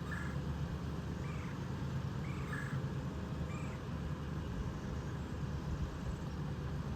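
Truck engine running steadily with a low hum. Over it, four short high arching animal calls sound about once a second in the first four seconds.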